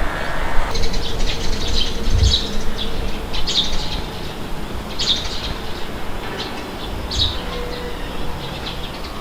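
Small birds chirping in short, scattered bursts over a steady low wind rumble, with two brief low gusts.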